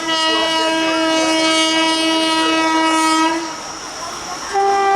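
Electric locomotive air horn, most likely a WAP-4's, sounding one long blast of about three and a half seconds, then a second, higher-pitched blast starting near the end.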